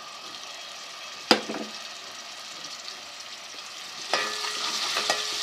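Ginger-garlic paste sizzling in hot ghee in a pan. A sharp knock of a utensil on the pan rings out about a second in, and from about four seconds in the sizzling gets louder as the paste is stirred, with a few clicks.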